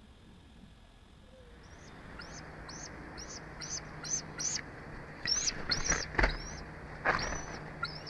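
A bird calling a run of short, high piping notes, about two a second, each rising and then falling in pitch, starting a little over a second in. A few dull thumps come in the second half.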